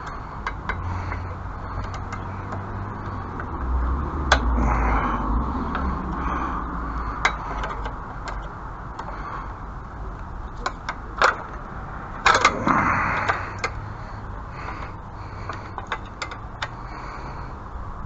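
Wind gusting across the microphone, a low rumble that swells about four seconds in, with scattered sharp clicks and knocks and a short louder rattle about twelve seconds in.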